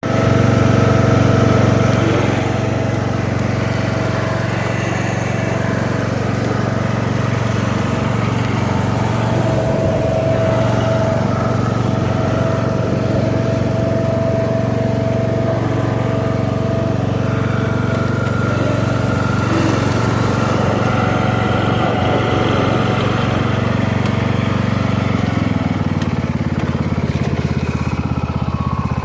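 Craftsman LT3000 riding lawn tractor's engine running steadily, its note shifting slightly near the end.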